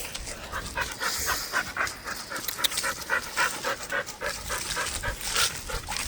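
A dog panting hard and fast, about five breaths a second, winded from running after a ball.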